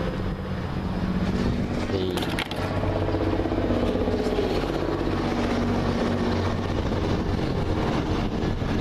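A steady engine hum.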